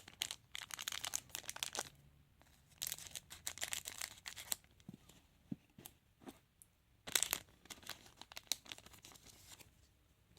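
Trading card packet wrapper being torn open and crinkled in hand, in three spells of crackling with a few light clicks between them.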